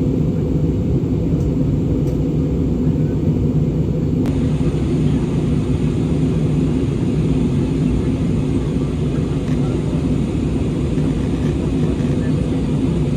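Steady low drone of an airliner's engines and rushing air heard inside the passenger cabin in flight.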